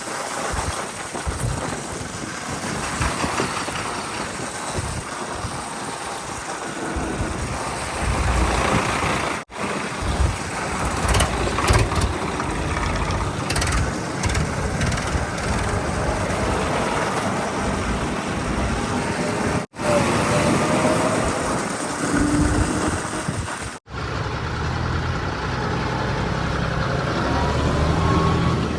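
Heavy diesel vehicle engines running and idling, in several short clips joined by three abrupt cuts.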